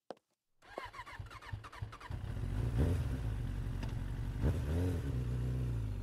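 A motor vehicle engine starts up under a second in, then runs with a low steady drone, revving up and back down twice.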